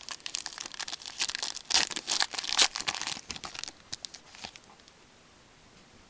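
Foil trading-card pack wrapper being torn open and crinkled, a dense run of crackling for about four seconds, then a couple of last crinkles and quiet handling.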